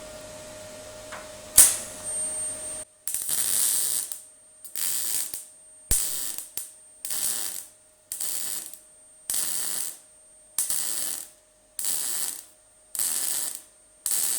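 MIG welder (0.6 mm wire) laying short stitch welds on the steel edge of an MGB GT tailgate: a steady hum and a sharp click, then about three seconds in a run of some ten short arc bursts, each under a second, with brief pauses between. The first welds burn through the seam sealer sandwiched between the two panels.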